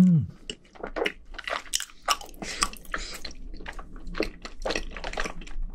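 A short, loud hummed "mm" that rises and falls right at the start, then wet chewing with smacks and mouth clicks as a mouthful of tteokbokki, chewy rice cakes in red chili sauce, is eaten.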